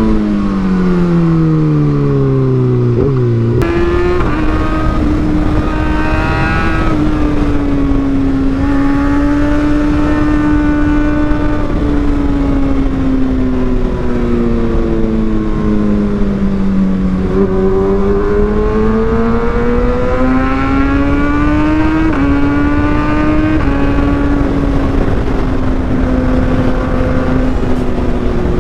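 Kawasaki ZX-6R 636's inline-four through an Austin Racing GP1RR exhaust while riding. The engine note falls away for the first few seconds, then jumps sharply up, as on a downshift. It then holds a fairly steady cruising note that sags a little around the middle and climbs again.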